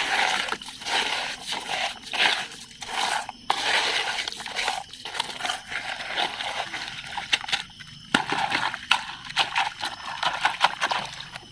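A toy sand dump truck being unloaded by hand: irregular scraping and rustling of its sand load, with scattered small clicks and knocks.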